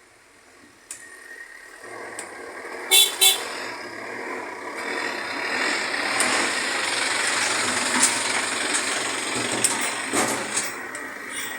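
A road vehicle passing close by, its noise swelling over several seconds, with two short horn toots about three seconds in.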